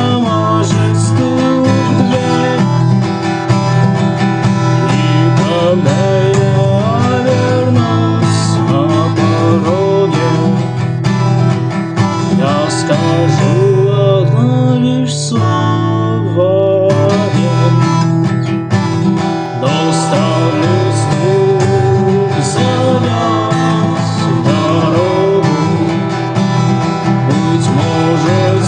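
Acoustic guitar playing an instrumental passage of a rock song, with a melody line over it that slides and bends between notes.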